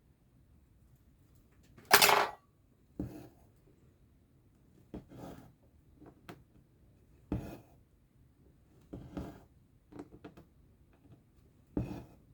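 Cross-stitching: a needle and thread are pushed and drawn through cross-stitch fabric, giving about eight short rustling pulls at uneven intervals. The loudest pull comes about two seconds in.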